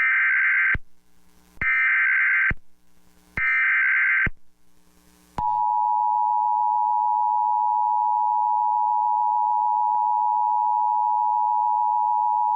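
Emergency Alert System tones on a TV broadcast: three one-second bursts of the shrill SAME data header, then about five seconds in the steady two-tone attention signal begins, announcing a severe thunderstorm warning from the National Weather Service.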